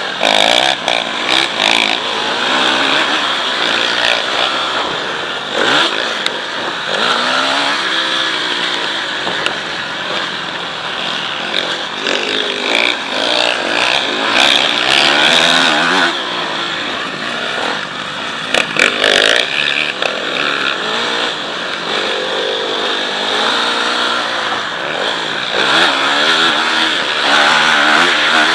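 Motocross bike engine revving hard, its pitch rising and falling over and over as the throttle is worked through the gears, with a steady rushing noise underneath.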